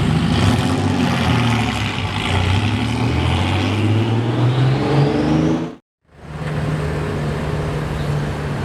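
Car engine accelerating hard, its pitch rising steadily for several seconds, then cut off abruptly about six seconds in; after the break an engine runs at a steady pitch.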